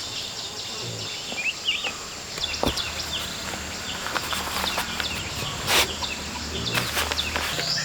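Outdoor countryside ambience: small birds chirping in short rising and falling calls over a steady high insect drone, with a few sharp knocks.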